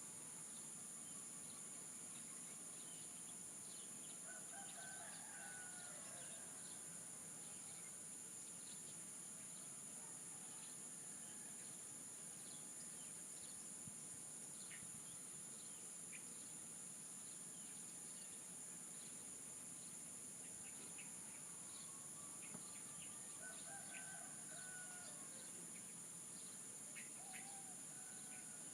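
Rooster crowing twice, faint and distant, about five seconds in and again near the end, over a steady high-pitched insect drone of crickets with scattered small bird chirps.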